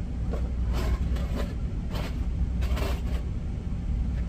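Steady low hum of the semi-truck's idling engine, with about four short scrapes of a knife scooping butter out of its tub.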